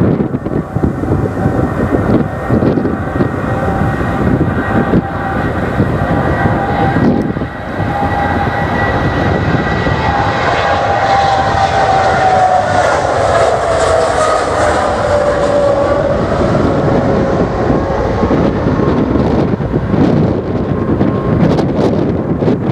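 Airliner's engines passing by, a loud steady rumble with an engine whine that drops in pitch about halfway through as the plane goes past, under wind buffeting the microphone.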